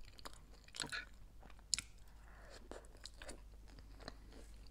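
A person chewing a mouthful of toasted sandwich with pesto, close to the microphone: soft, scattered crunches and small mouth clicks, the sharpest a little under two seconds in.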